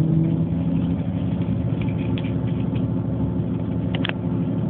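Train running, heard from inside the carriage: a steady low rumble with an engine hum.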